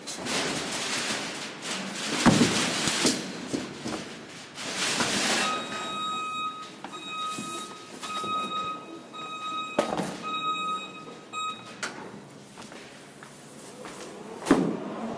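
Rushing noise with knocks for the first few seconds, then an industrial warning beeper pulsing about once a second for several seconds, and single sharp knocks near the end.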